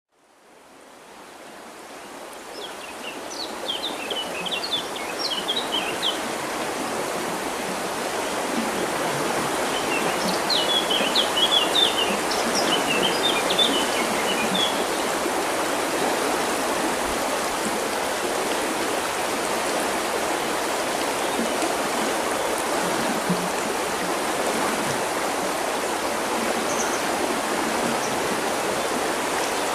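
River water flowing steadily, fading in over the first several seconds, with small birds chirping in two flurries of quick high notes, a few seconds in and again about ten seconds in.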